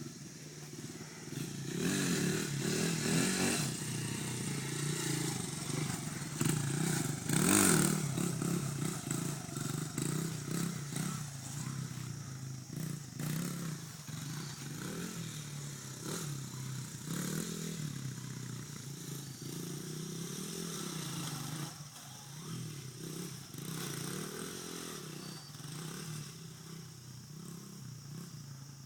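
Dirt bike engine running and revving up and down, with the loudest surges of throttle about two and eight seconds in, then running lower and a little quieter for the last several seconds.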